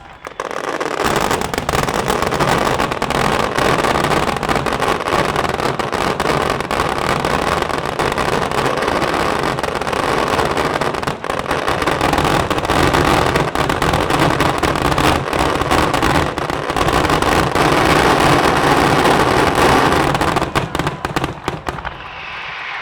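Fireworks finale: a dense, continuous barrage of exploding shells and firecrackers whose bangs merge into one loud roar, thinning to a few separate bangs and dying away near the end.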